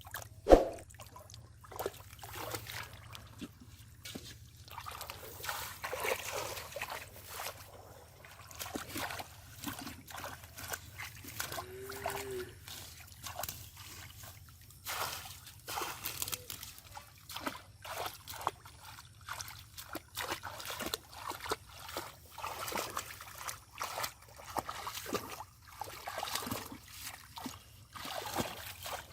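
Shallow muddy pond water splashing and sloshing in irregular bursts as hands move through it to catch fish. A single sharp splash or thump about half a second in is the loudest sound.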